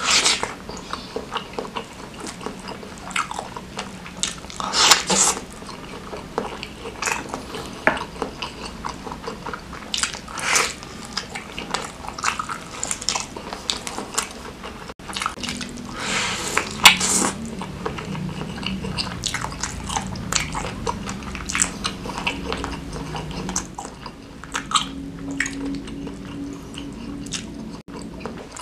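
A person biting and chewing mouthfuls of bakso beranak (stuffed beef meatballs) and fatty beef trimmings in chili sauce: continuous wet chewing with many small clicks and several louder bites.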